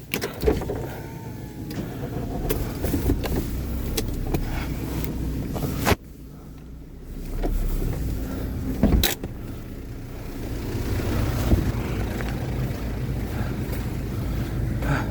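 A vehicle's engine running with a steady low rumble. There are two sharp thuds, about six and nine seconds in, and the sound drops suddenly after the first.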